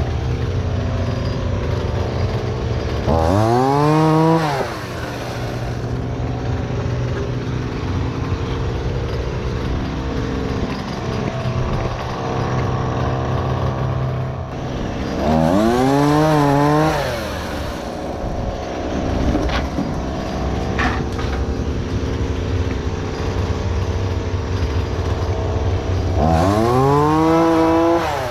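An engine running steadily, revved up hard three times for a second or two each, its pitch climbing and then dropping back.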